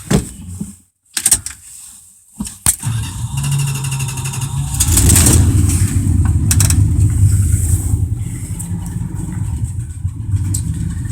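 Cold start of a 1987 Dodge Ram D150's 318 V8, manual choke pulled out: a few clicks, then the engine catches about three seconds in, rises briefly about five seconds in, and settles into a steady idle. The owner calls it cold-blooded.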